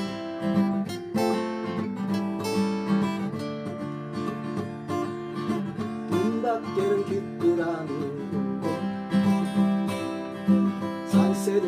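Acoustic guitars strumming chords in a country-style variation rhythm, with a melody line played over them partway through.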